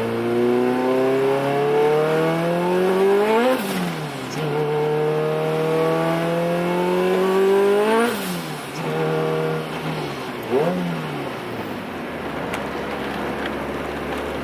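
Turbocharged Honda Civic four-cylinder engine accelerating through the gears: the engine note rises steadily and drops sharply at an upshift twice, then settles to a steady lower drone with one short rev about two-thirds of the way through.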